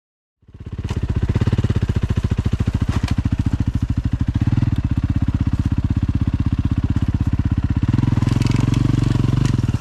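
Dirt bike engine running steadily close to the microphone, its firing pulses plainly heard. It starts abruptly about half a second in, lifts a little in pitch and level near the end, then cuts off suddenly.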